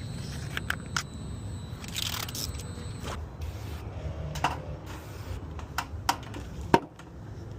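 Irregular sharp clicks and taps from handling tools and materials during window-film installation, with a short swish about two seconds in and one louder click near the end, over a steady low hum.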